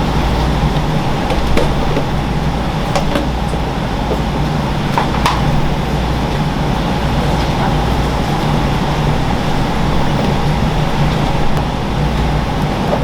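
Steady mechanical hum and rumble with a few faint clicks.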